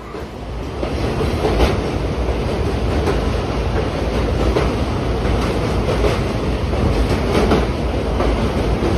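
Passenger train running at speed over a river bridge, heard through an open barred carriage window: a steady loud rumble of wheels and carriage with occasional clacks from the track.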